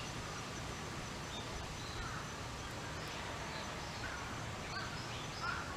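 Steady outdoor background noise with a few faint bird calls, about two seconds in and again near the end.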